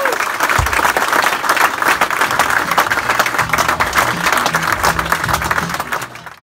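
Studio audience applauding, a dense run of handclaps, with a low thump about half a second in and low notes sounding under the clapping; it fades and cuts off at the end.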